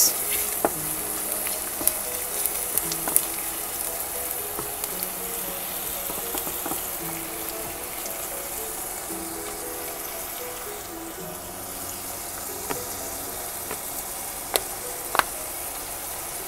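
Shrimp, garlic and onion sizzling steadily in oil in a frying pan, with a few sharp taps of a wooden spatula against the pan, the loudest two near the end. Soft background music plays underneath.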